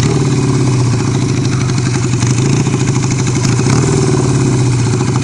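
Motorcycle engine running steadily at low revs, with no revving, alongside a steady hiss.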